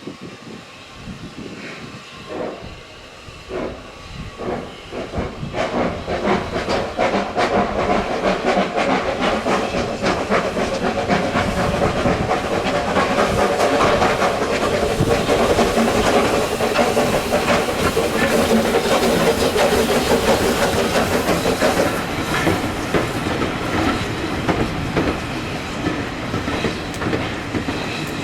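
Steam locomotive working a train: separate exhaust beats at first, coming quicker and merging into a fast, continuous chuffing with steam hiss and the rumble of carriages on the rails. It grows louder through the middle and eases off near the end.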